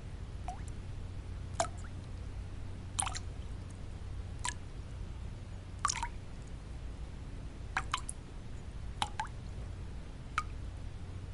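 Water drops falling one at a time into water, each a short plink, about ten of them at uneven intervals of one to one and a half seconds, over a steady low hum of background noise.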